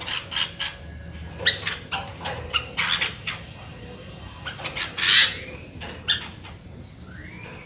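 Sooty-headed bulbul (kutilang) calling in a string of short, sharp chirps at irregular intervals, one louder note about five seconds in.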